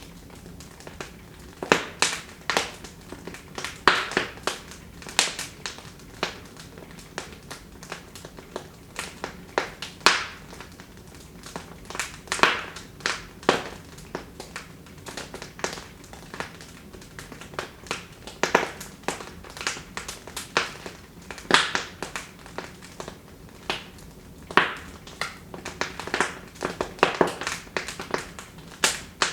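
Wood fire burning in a fireplace, crackling with irregular sharp pops and snaps every second or so over a low hiss.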